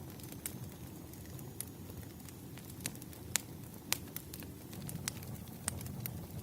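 Bonfire burning: a steady low rumble of flames with sharp crackles and pops at irregular intervals, the loudest pops about halfway through.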